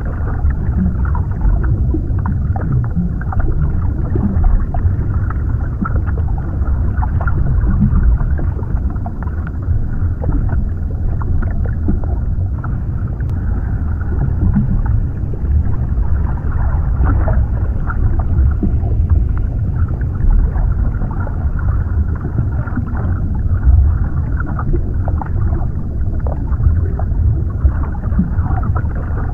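Underwater ambience: a steady, deep, muffled rumble of water, with small irregular crackles over it.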